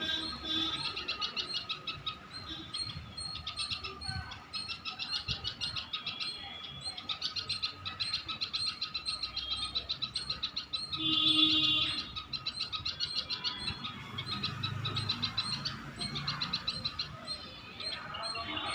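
A small bird chirping in quick runs of rapidly repeated high notes, with a louder, denser burst of chirping about eleven seconds in.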